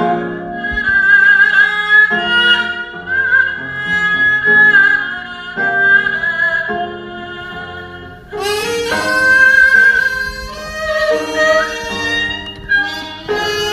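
Korean traditional instrumental music from an ensemble of daegeum bamboo flutes playing a slow, sustained melody. A fuller, louder passage comes in about eight seconds in.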